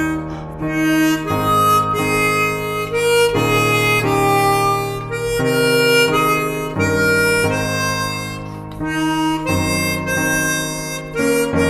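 Harmonica playing a slow melody of held notes that change about once a second, with lower notes sounding beneath them.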